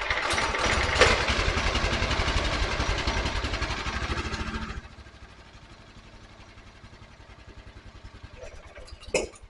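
Honda pressure washer's small gas engine catching on the pull with the choke on and running loudly for about five seconds, then dropping to a much quieter, uneven running. A couple of sharp clicks near the end.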